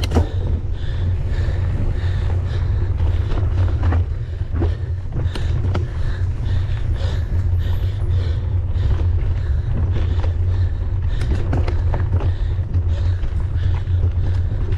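Mountain bike rolling over rough trail: a steady low rumble of wind on the microphone, with scattered clicks and rattles from the bike over bumps.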